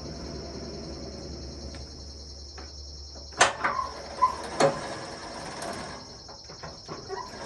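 Steady high-pitched chirring of crickets, with three or four sharp knocks a little after the middle, one leaving a brief ringing tone.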